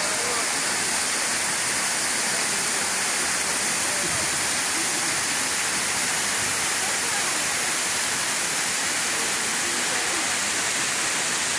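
Steady rush of falling water, an even, unbroken roar like a waterfall.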